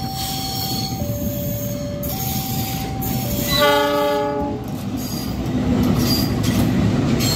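A level-crossing warning alarm sounds a two-tone signal, switching between a higher and a lower tone about once a second. Midway through, a KAI CC206 diesel locomotive blows its horn once, for about a second. The locomotive and its train then run past the crossing, their engine and wheel noise growing louder toward the end.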